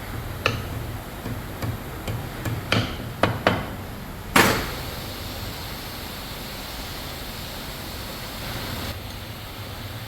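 Assembly work on 100cc motorcycle engines: a string of sharp knocks and clicks of tools and parts, the loudest a single strike about four seconds in with a short ring, over a steady low factory hum.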